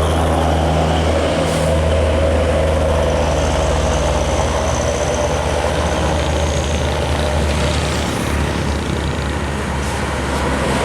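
Scania bus diesel engine running with a steady low drone, and a faint high whine for a few seconds in the middle.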